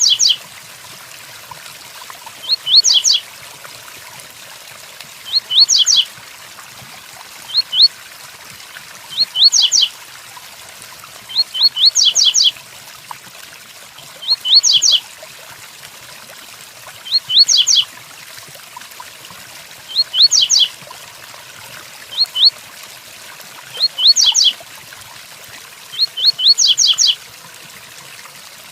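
Coleiro (double-collared seedeater) repeating its 'tui tuí' song: a short phrase of two to four quick, high, downward-slurred notes about every two and a half seconds, over the steady hiss of rain.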